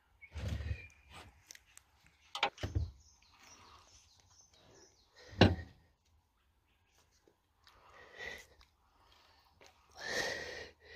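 Knocks and clanks from metal engine parts and tools being handled during a strip-down, a few separate strikes with the sharpest about halfway through, and scraping in between.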